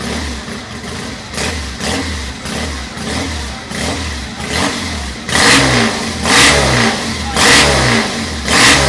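Old Triumph motorcycle engine idling with light blips of the throttle, then revved hard four times, about a second apart, from about halfway through.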